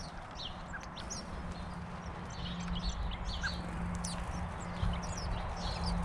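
Small garden birds calling in many short chirps and twitters, with a few sharp taps and a steady low hum underneath.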